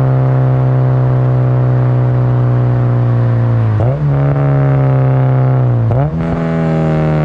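Honda Civic Si's K20 four-cylinder running through a Skunk2 Alpha header and Full Race 3-inch exhaust, the note slowly falling as the car slows. About four and six seconds in, the sound briefly drops out and the revs blip and settle higher: two downshifts, each with a quick throttle blip.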